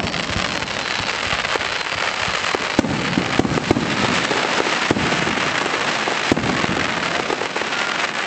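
Aerial fireworks: a dense, steady crackle like rain from crackling stars, peppered with sharp pops and a few louder bangs.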